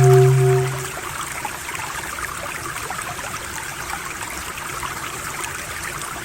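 Running water like a trickling stream, a steady even rush. A low, steady om drone fades out about a second in, leaving only the water.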